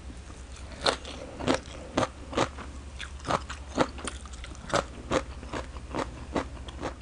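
Close-up crunchy chewing of a mouthful of raw green mango salad with fresh cha-om shoots: crisp crunches about twice a second, each a sharp snap, over a low steady hum.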